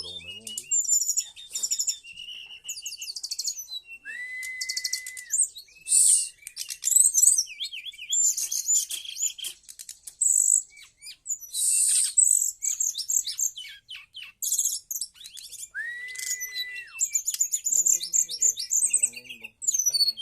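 Brown-chested jungle flycatcher (SRDC) singing a rapid, varied song of high chirps and trills. Twice it holds a long, steady whistle, about four seconds in and again near the end.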